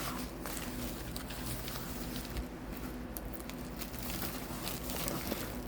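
Faint rustling and light clicks of parcel packaging being handled and unwrapped, over a low steady hum.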